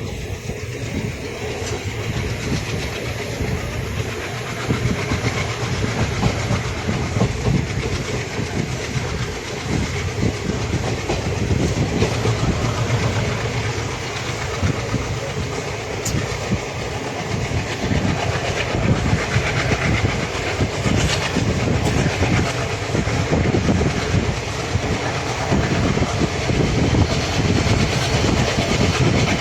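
Passenger train running at speed, heard from on board: steady wheel and track rumble with a constant clatter of wheels knocking over rail joints, growing a little louder in the second half.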